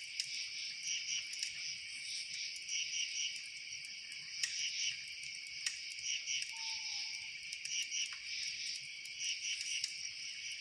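Dense chorus of chirping insects, a steady high shrill with rapid pulsing chirps layered through it. A few sharp isolated clicks, and a brief faint whistled note about two thirds of the way through.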